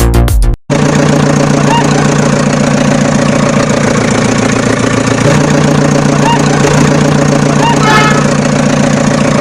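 A motor vehicle's engine idling steadily, starting about half a second in as music cuts off, with a few faint short chirps over it.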